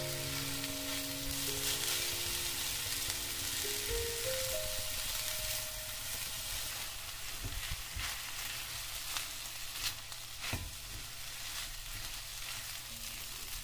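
Shrimp fried rice sizzling in a hot wok while a spatula stirs and tosses it, with a few sharp knocks of the spatula against the wok in the second half.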